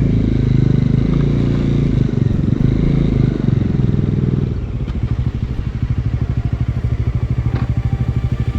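Bajaj Dominar 400's single-cylinder engine running with its pitch rising and falling under throttle. About four and a half seconds in it drops to a steady, evenly pulsing idle.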